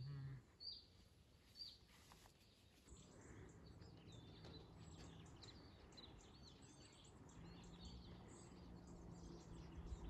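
Faint birdsong: scattered short high chirps, growing busier after about three seconds, over a quiet outdoor background with a faint low hum.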